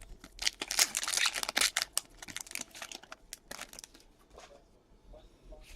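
A foil trading-card pack wrapper being torn open and crinkled, a dense crackle for about two seconds, then a few lighter rustles and clicks as the cards are handled.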